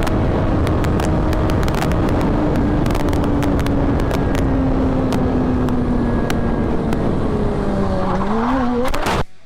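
Motorcycle riding at highway speed over heavy rushing noise with scattered clicks, its engine note slowly dropping as the bike slows. Near the end the engine note rises briefly, then the sound cuts off suddenly.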